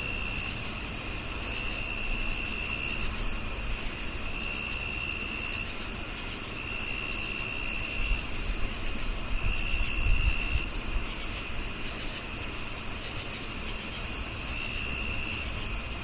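Crickets chirping in chorus: a steady high trill, evenly spaced sharp chirps about two a second, and a lower trill that comes in bursts of a second or so every few seconds, over a faint low rumble.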